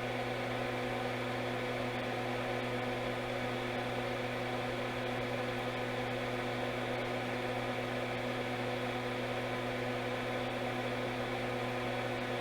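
Steady electrical hum and whir of running bench equipment, a few fixed tones over a light hiss, unchanging throughout.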